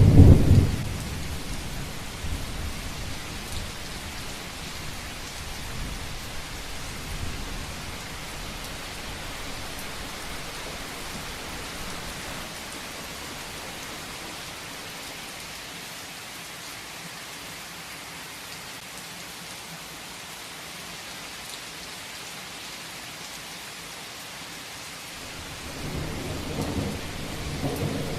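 Heavy rainstorm: a steady hiss of rain, with a thunder rumble dying away in the first second and another thunder rumble rolling in and growing louder over the last couple of seconds.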